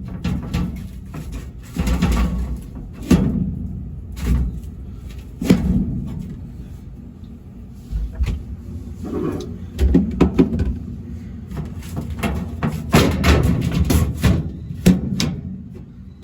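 Irregular knocks and clatter of parts being handled and fitted on a refrigerated prep table, with several sharp knocks in quick succession around the middle and again near the end.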